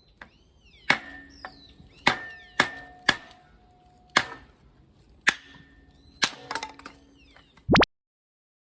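Dry softwood firewood logs knocking together as they are picked and handled: about eight sharp, irregular wooden clacks, several with a short ringing tone. The sound cuts off abruptly near the end.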